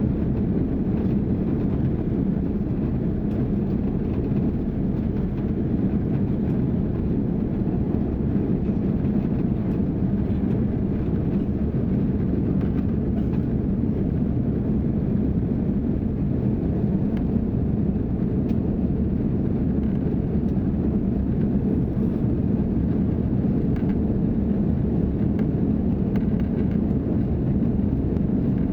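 Steady low rumble of engine and airflow noise inside the economy cabin of an Airbus A330-300 in flight.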